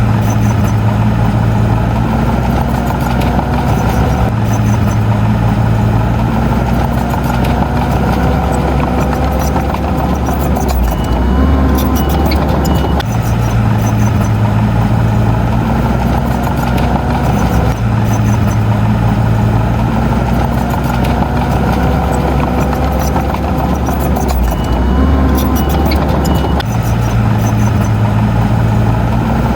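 Heavy diesel engine of earth-moving machinery running continuously, its note and load shifting every few seconds.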